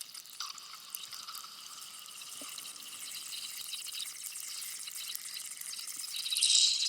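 Ambient white-noise soundtrack: a steady high hiss with many fine crackling clicks and almost nothing in the low end, swelling briefly louder near the end.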